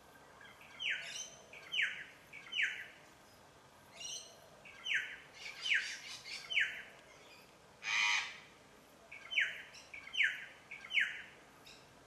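Wild birds calling. One bird repeats a phrase of three sharp whistled notes, each sliding downward, three times over. A single harsher, noisier call comes about two-thirds of the way through.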